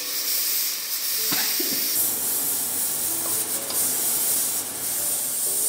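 Diced raw plantain sizzling in hot oil with onion-tomato masala in an aluminium pot, stirred with a wooden spoon; a steady frying hiss with a few short scrapes of the spoon.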